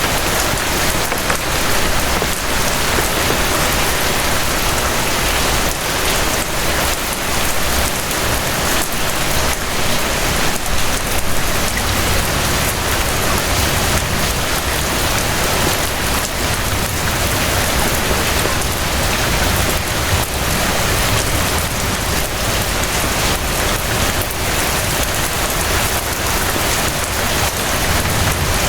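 Steady rain falling, an even dense hiss of drops that does not let up.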